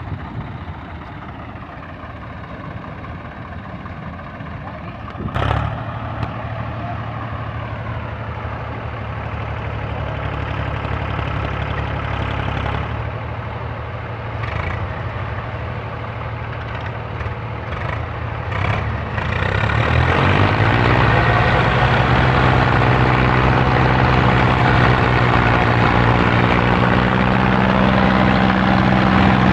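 Tractor engines running together while hitched to pull a combine harvester, their pitch slowly rising and falling. There is a sharp knock about five seconds in. About two-thirds of the way through, the engines are revved up hard and run louder and higher under load to the end.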